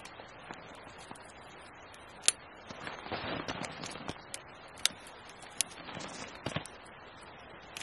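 Campfire crackling, with scattered sharp pops, the loudest about two seconds in.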